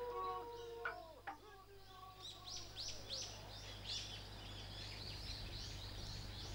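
A bird calling over and over: short, high, falling chirps at about two a second, beginning about two seconds in. Before that, a held tone from the previous scene fades out in the first second, with two short clicks.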